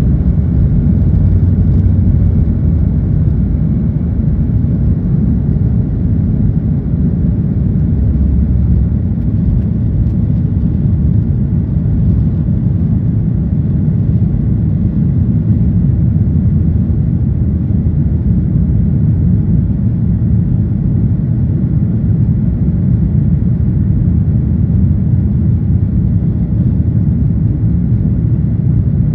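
Boeing 737-800 cabin noise heard from a window seat: a loud, steady low rumble of the jet's engines and airflow.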